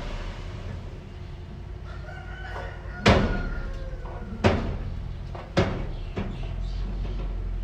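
Low, steady engine rumble of heavy machinery, broken by three sharp bangs about a second apart in the second half, with a rooster crowing faintly in the background before the first bang.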